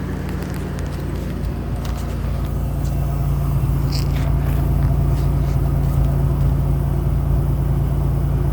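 1985 Nissan 300ZX Turbo's turbocharged 3.0-litre V6 running steadily on its high cold-start idle, growing a little louder about two and a half seconds in.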